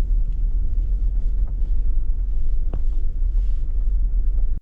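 Wind buffeting the camera microphone, a steady low rumble that rises and falls unevenly, with a couple of faint clicks. It cuts off suddenly at the end.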